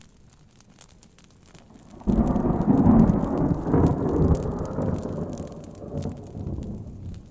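Faint fire crackling under rain, then a loud roll of thunder starts sharply about two seconds in. The thunder rumbles, fades slowly and cuts off near the end.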